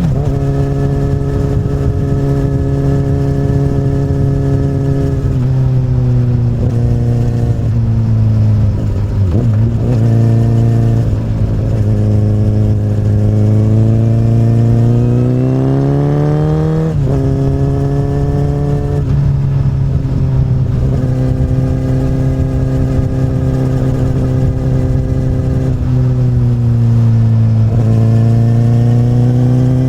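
2008 Honda CBR1000RR's inline-four engine through an Akrapovic carbon slip-on exhaust, pulling through the gears on the road. Revs climb and drop sharply at upshifts just at the start and about 17 seconds in, with the engine note sinking as it slows in between.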